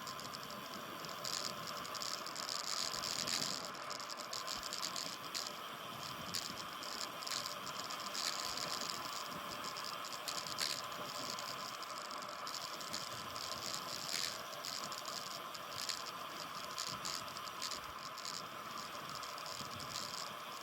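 Bicycle ride heard through a phone mounted on the bike: a steady hiss with frequent small rattles and clicks as the bike rolls along the road.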